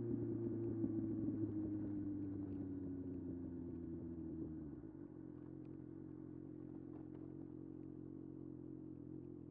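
Kawasaki ZX-6R 636 inline-four engine slowing down, its note falling steadily for about five seconds, then settling to a quieter, steady idle.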